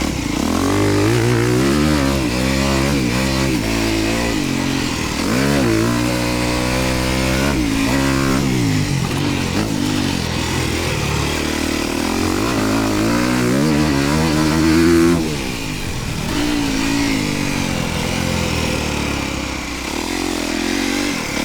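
Dirt bike engine revving hard on a motocross track, its pitch rising and falling over and over as the rider opens and closes the throttle and shifts through the gears, with wind noise. About 15 seconds in the engine drops off to a lower, steadier run.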